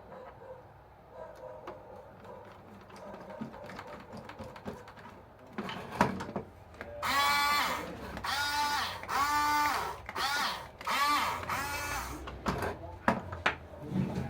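Small electric drive motor and plastic gearbox of a Huina 1569 RC bulldozer whining in about five short runs, each rising in pitch, holding and falling away, as the drive is tested. Light handling clicks and knocks come before the runs.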